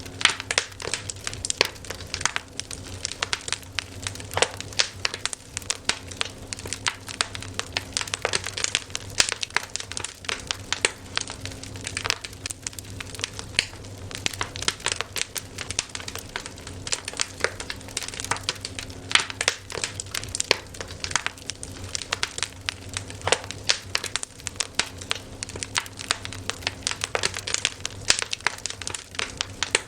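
Wood fire crackling: a continuous run of irregular sharp pops and snaps over a steady low hum.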